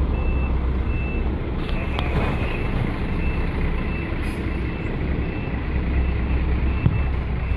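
Vehicle reversing alarm beeping at an even pace, one short high beep about every three-quarters of a second, over the heavy low rumble of a truck engine running. A couple of brief knocks sound over it.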